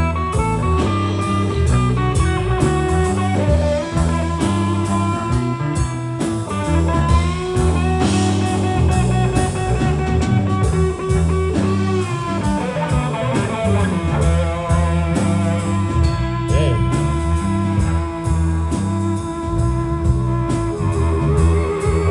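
Live blues band in an instrumental passage: electric guitar with bending notes over a repeating bass riff and drums.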